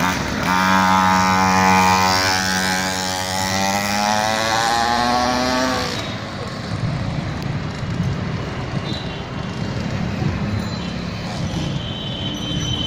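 Small 50 cc motorbike engine running at high revs as it pulls away, its note holding steady and rising slightly. It fades out about six seconds in, leaving an uneven rumbling background noise.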